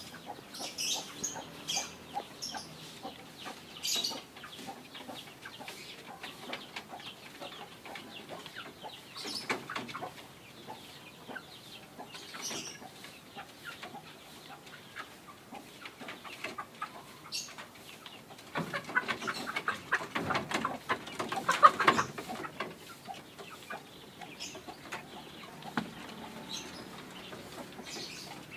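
Kampung chickens clucking and calling, with scattered short calls and small clicks throughout and a louder, busier stretch of clucking about two-thirds of the way through.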